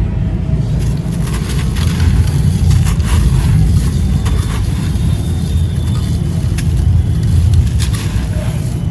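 Gritty light grey concrete crumbling and crunching: a steady low rumble with scattered small crackles.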